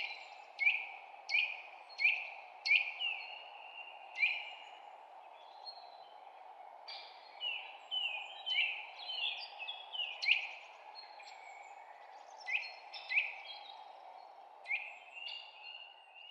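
A songbird chirping: a series of short, sharp chirps that each sweep downward, coming about every second at first and crowding together near the middle. Under them runs a steady low hiss.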